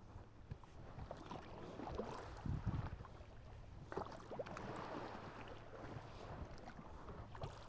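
Paddle strokes splashing and dipping in choppy water from a small paddled boat, with wind gusts thumping now and then on the microphone.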